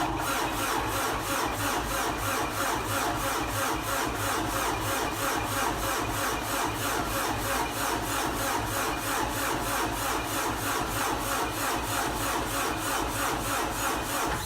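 Kubota M100X tractor's diesel engine being cranked by its starter on a cold start without a block heater. It turns over in an even rhythm of about three strokes a second without catching.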